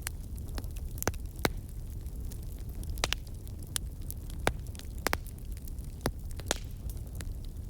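Campfire burning: sharp, irregular crackles and pops, about ten of them, some in quick pairs, over a steady low rumble of the flames.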